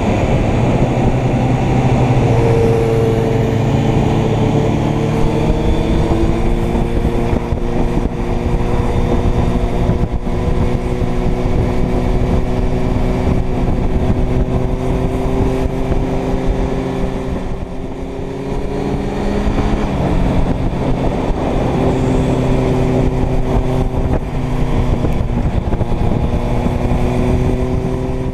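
Inline-four motorcycle engine running under way, its pitch climbing slowly, easing off about two-thirds of the way through, then climbing again, with heavy wind noise.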